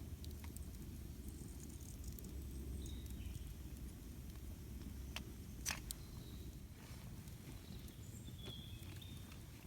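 Campfire burning with a steady low rumble and scattered wood crackles, two sharp pops standing out about halfway through.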